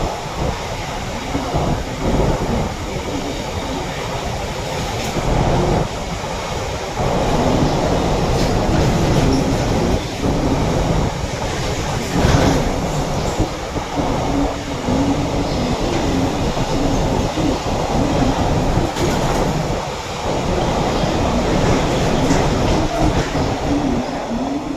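Freight train hauled by a WAG-12B electric locomotive passing close by: a loud, steady rumble of wheels on rails, with sharp clicks at rail joints and a faint wavering whine.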